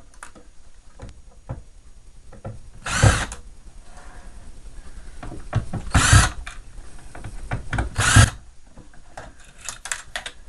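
Power drill-driver spinning in three short bursts, backing out small screws while a mini fridge is dismantled, with light clicks and handling of parts between the bursts.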